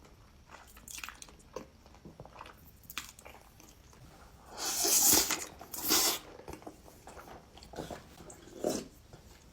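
Close-miked eating: a person biting and chewing crunchy food, with scattered small crackles and louder crunches about five and six seconds in and again near the end.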